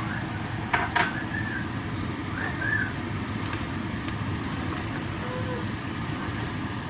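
Prawns and masala frying in a pan over a steady low rumble, with a spoon knocking twice against the pan about a second in.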